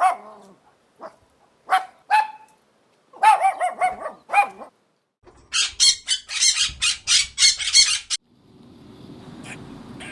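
Animal calls in quick succession: a few short pitched calls, then a run of about six more, then a fast string of about a dozen shrill, high calls. A low steady noise takes over near the end.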